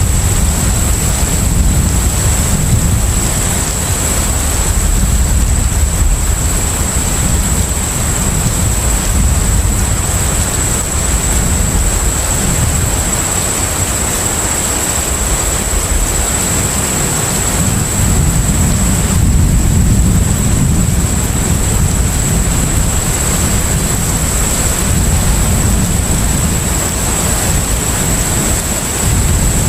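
Steady deep rumble of a container ship's engines under way, with an even wash of sea and wind noise and a thin high-pitched whine over it.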